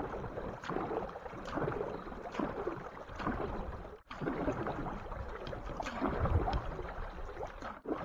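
Canoe being paddled, with water sloshing and splashing from the paddle strokes.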